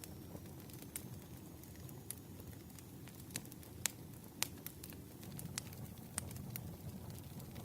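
Campfire crackling: burning wood gives irregular sharp snaps and pops, the loudest about four seconds in, over a steady low rumble of the fire.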